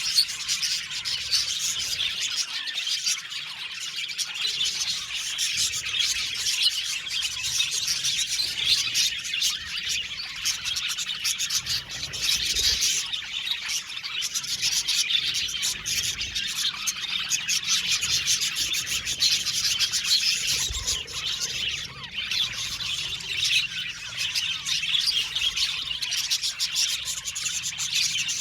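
A flock of budgerigars chirping and warbling together in a dense, unbroken chatter of many overlapping high chirps.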